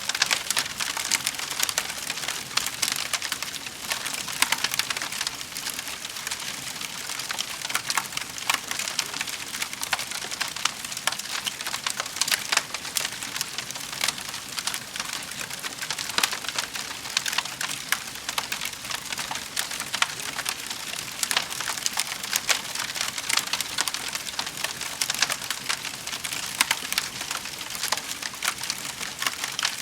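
Fire crackling in a fireplace: a steady, dense crackle with many small sharp pops throughout.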